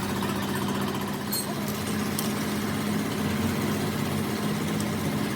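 Excavator's diesel engine idling steadily with an even low hum.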